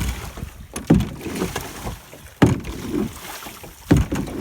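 A single oar rowing a small boat: a knock at each stroke, about every second and a half, each followed by a swirl of water.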